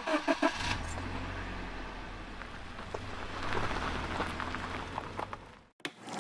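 Car running with a steady low engine hum, road noise and scattered light clicks, cut off abruptly near the end, after a few knocks at the start.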